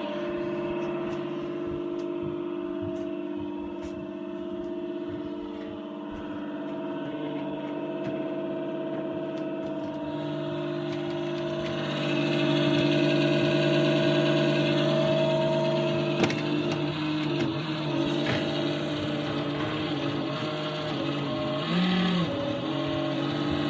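Worn 80 mm cooling fan (TD8020LS) in a NewAir AWC-270E wine cooler, running with a steady whine made of several tones at once; the fan needs replacing. The sound gets louder about halfway through, and the pitch wavers briefly near the end.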